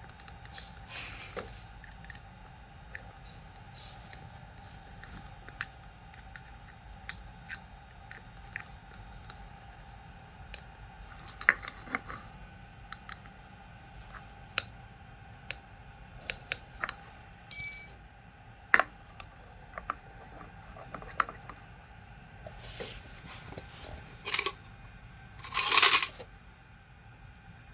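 Small metal parts and hand tools clicking, tapping and clinking against each other on a workbench while a rotary hammer is taken apart by hand, with one ringing metallic clink about two-thirds of the way through and a short scraping rush near the end. A faint steady hum runs underneath.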